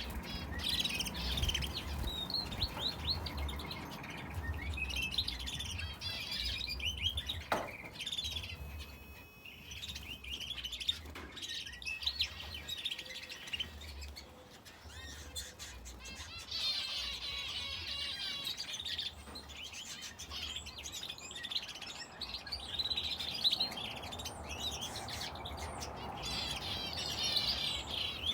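Aviary finches and a canary chirping and twittering together in a busy, overlapping stream of quick high calls. The calls thin out for a few seconds midway and grow busier again after about sixteen seconds.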